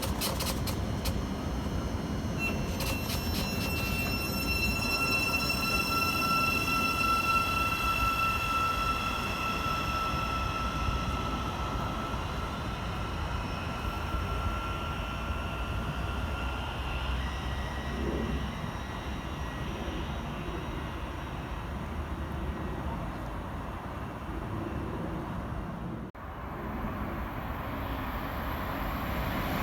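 Electric passenger train at the platform: a series of sharp clicks, then a steady high whine from its traction equipment that fades away over about fifteen seconds as it pulls out, over a low rumble.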